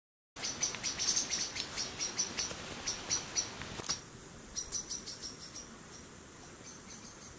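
Small birds chirping: quick, high, short chirps several times a second, over a low outdoor background rush. The chirping thins out about halfway through and carries on more faintly.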